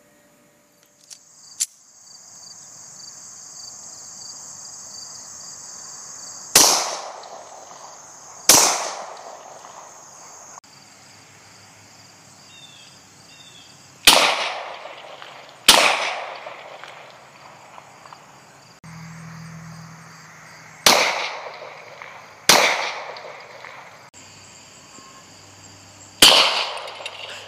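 Glock 23 pistol in .40 S&W firing seven shots, mostly in pairs a second and a half to two seconds apart, each with a short echoing tail.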